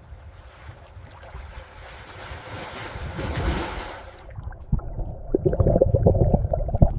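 Ocean water rushing and splashing at the surface, building, then cut off abruptly about four seconds in. It gives way to a muffled underwater rumble with irregular low thumps, as a camera dives below the surface.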